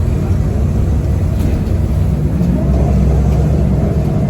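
Cummins ISL diesel engine of a 2010 Nova Bus LFS articulated bus running while the bus is under way, heard from inside the bus: a loud, steady low rumble. A more even engine hum comes in about two and a half seconds in.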